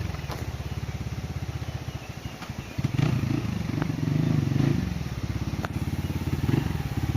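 Dirt bike engine running under load on a trail climb, its firing pulses steady at first, then louder with throttle surges from about three seconds in. A few sharp clicks can be heard over the engine.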